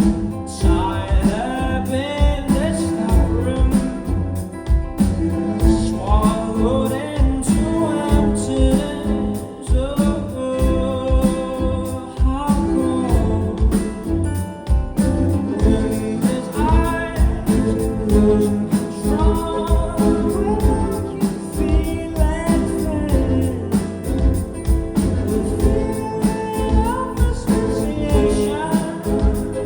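Rock band playing live: a lead singer over drums and guitars, with a steady beat.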